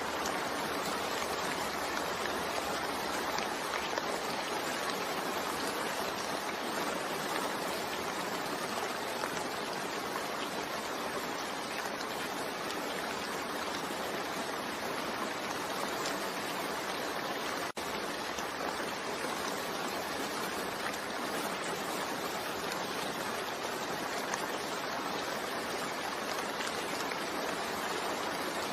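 Steady, even rain falling, with a split-second gap in the sound a little past the middle.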